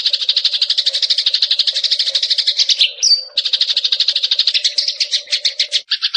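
Eurasian tree sparrow singing a fast, continuous chattering trill of rapid repeated notes, about a dozen a second. About three seconds in it breaks for a short higher note, then the trill resumes and changes to a different, lower trill near the end.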